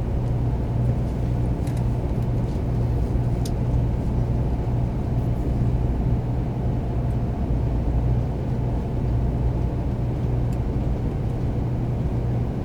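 Steady low rumble of a Tokaido Shinkansen 300 series train running, heard inside a Green car: running gear, track and motor noise, with a few faint clicks.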